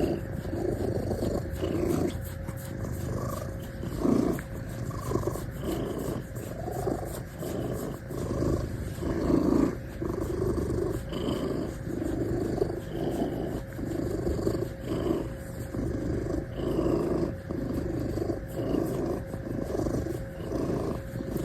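Domestic cat purring steadily, the purr swelling and fading about once a second as it breathes in and out.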